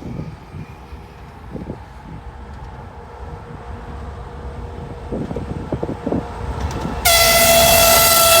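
2TE116UM diesel locomotive approaching with a low rumble that slowly grows louder, then sounding its horn: a loud, steady blast that starts abruptly about seven seconds in.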